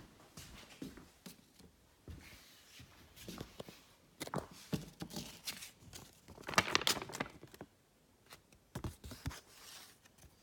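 A folded paper Tube map being opened out: paper rustling and crinkling in scattered bursts, loudest about six and a half seconds in.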